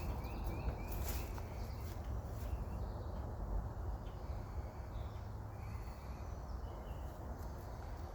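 Footsteps walking along a wet trail over a steady low rumble on the microphone. A short run of bird chirps sounds in the first second.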